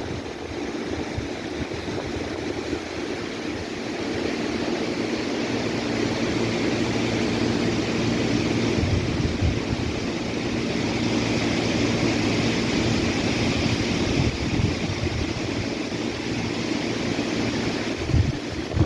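Wind blowing through trees with rustling leaves, over a steady engine drone that swells slightly in the middle and eases again.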